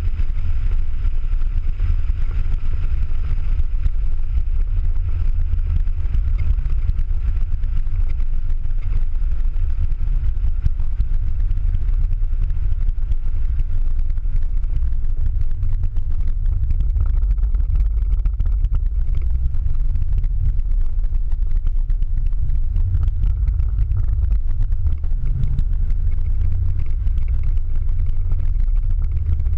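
Ford Mustang Boss 302's V8 engine running at track speed, heard from inside the cabin as a steady low drone mixed with road noise.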